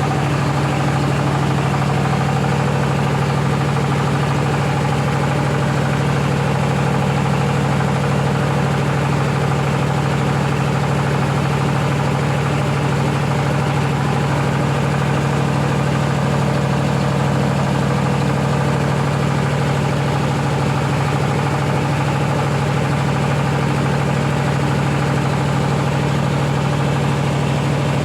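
Rice milling machine running steadily: a loud, even mechanical hum with a strong low drone and a hiss above it, unchanging throughout.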